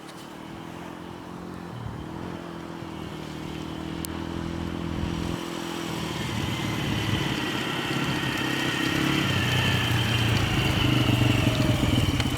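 Off-road vehicle engine running, growing steadily louder as it draws nearer, with a thin high whine above it.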